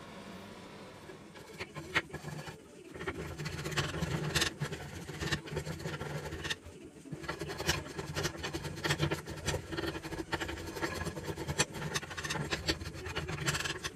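Tool scraping and rasping on wood, with irregular clicks and knocks over a steady low hum, pausing briefly about halfway through.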